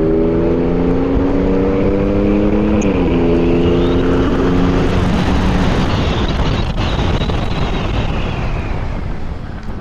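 A 96-volt electric motorcycle riding along, with wind rushing over the microphone and a high whine that rises in pitch and then falls again as the bike speeds up and slows. Under it a low hum drops in pitch about three seconds in and fades out by the middle, and the noise eases off near the end.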